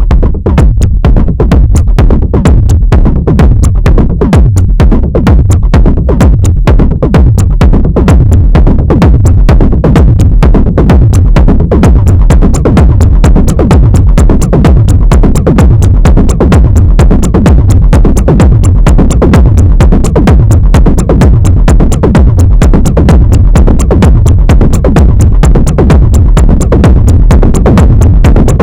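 Live analogue techno from a Moog DFAM drum synthesizer and an Arturia MicroFreak synthesizer: a steady, driving beat with a heavy low end and fast, evenly spaced percussive hits running throughout.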